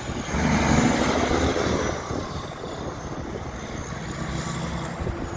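A heavy truck driving past, its engine and tyre noise loudest about a second in and then easing off.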